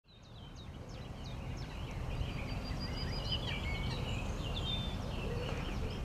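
Several songbirds singing and chirping, many quick overlapping notes, over a low steady background rumble, fading in over the first second.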